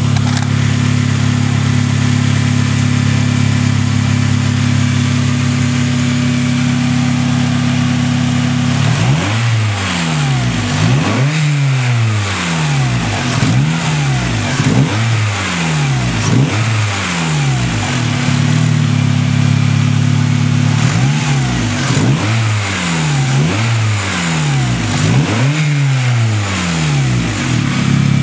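Turbocharged 2006 Acura RSX-S's 2.0-litre four-cylinder through a Skunk2 MegaPower R 76 mm exhaust, idling steadily, then revved up and let fall back about a dozen times in quick succession, and settling back to idle near the end.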